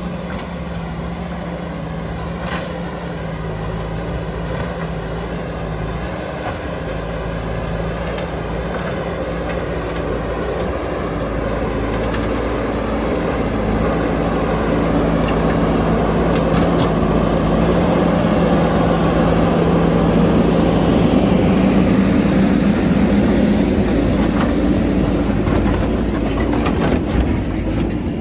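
Diesel engine of heavy earthmoving machinery running steadily under work. It grows louder through the middle and peaks about three quarters of the way in, with a few sharp clanks near the end.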